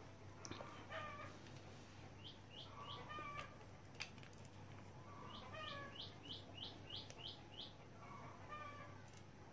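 Faint bird calls: runs of short, high, falling chirps, about three or four a second, with lower calls between them. A single sharp click comes about four seconds in.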